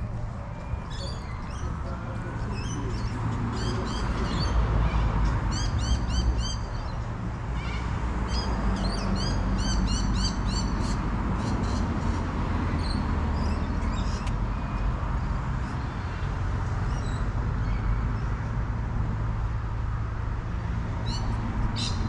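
Small birds chirping in quick runs of short, repeated rising notes, busiest in the first half, over a steady low rumble.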